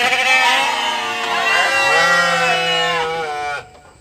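Sheep bleating: several long, wavering calls overlapping one another, cutting off about three and a half seconds in.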